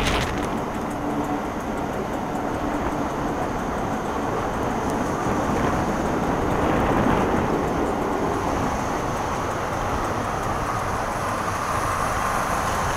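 Passenger train running on the rails, a steady rumble of wheels on track with wind rush, heard from an open carriage window. A steadier whine joins in near the end.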